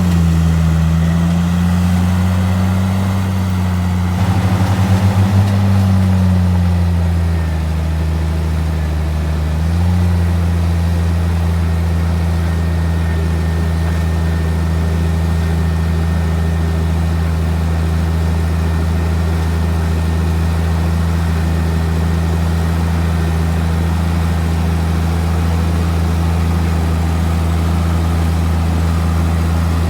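Heavy diesel engine of earthmoving machinery running. It revs up briefly about four seconds in, drops back within a few seconds, and then runs at a steady speed.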